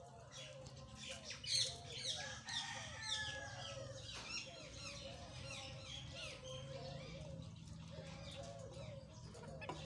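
Birds chirping and calling in quick falling chirps, busiest in the first half, with a louder call about a second and a half in. A steady low hum runs beneath.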